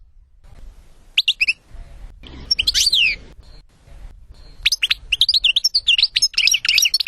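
European goldfinch singing in phrases of quick twittering chirps and falling sweeps: a short burst about a second in, another phrase a little later, and a long run of twittering from the middle to the end.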